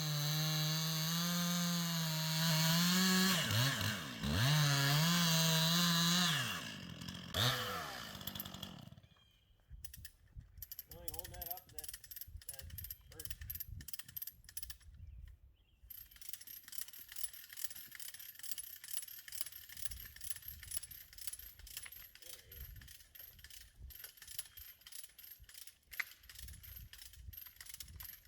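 Chainsaw running at high revs through a cut, the pitch dipping briefly twice before it cuts off about eight seconds in. After that, only faint, irregular clicking and ticking.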